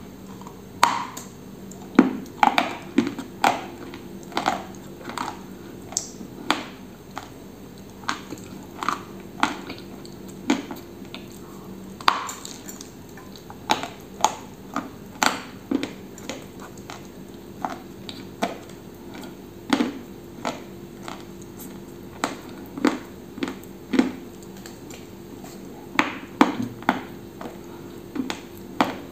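Close-up crunching and chewing of a chocolate-coated biscuit bar, with sharp dry crunches coming irregularly about once or twice a second.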